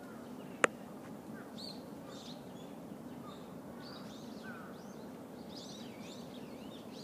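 Small birds chirping now and then in the trees over a steady low background noise, with one sharp click less than a second in.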